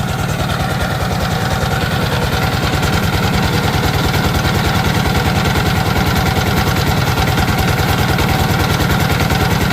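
Sifang single-cylinder diesel engine running steadily just after starting, with a fast, even firing beat.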